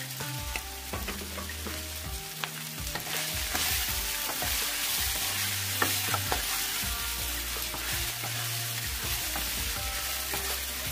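Meat, onion and bell pepper sizzling in a honeycomb-patterned wok while a wooden spatula stirs them, knocking against the pan now and then. The sizzle grows stronger about three seconds in, over soft background music.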